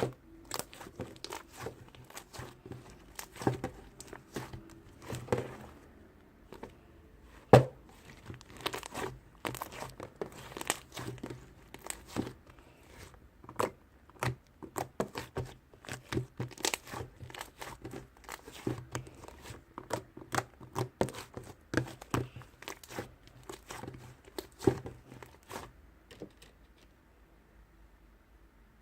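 Close-up crinkling and crackling: dense, irregular sharp clicks several times a second, with one louder snap about seven seconds in, stopping a few seconds before the end.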